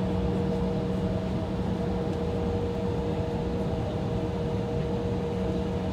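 Steady drone inside an Embraer E175 airliner cabin while it waits on the taxiway: the idling engines and the cabin air system give an even hum with a few constant tones.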